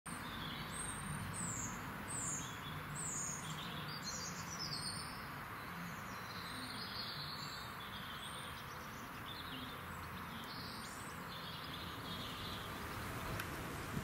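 Small garden birds calling outdoors in winter: a long run of short, high, downward-sweeping notes, about one or two a second, that fade out near the end, over steady background hiss.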